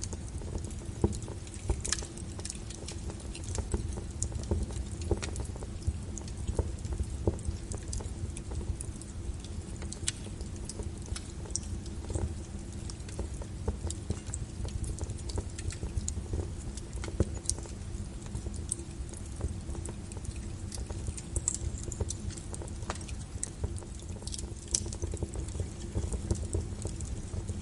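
Wood fire burning in a fireplace: irregular crackles and pops from the logs over a steady low rumble of the flames.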